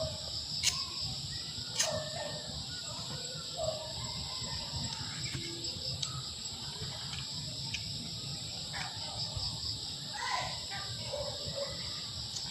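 Steady, high insect chorus of crickets, with scattered short bird calls over a low outdoor rumble.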